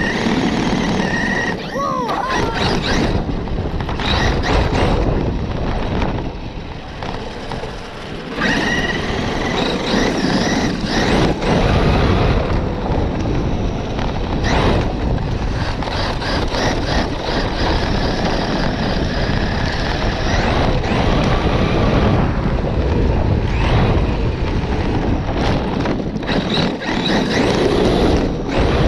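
Electric RC car being driven hard over rough ground: a motor whine that rises and falls with the throttle over a loud rattle of tyres and chassis. The noise eases off briefly about seven seconds in, then picks up again.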